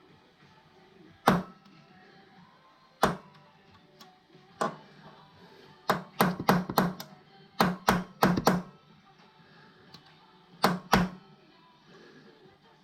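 Sharp metallic knocks and clanks, like hand tools striking metal, each with a short ring. They come singly at first, then in two quick runs of several blows near the middle, then a final pair.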